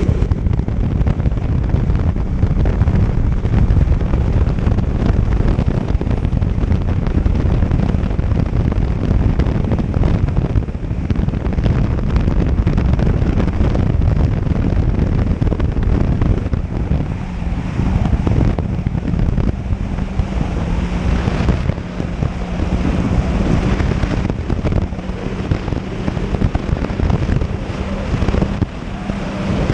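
Jet ski running steadily under heavy wind buffeting on the microphone, with a steady low engine hum beneath the rumble.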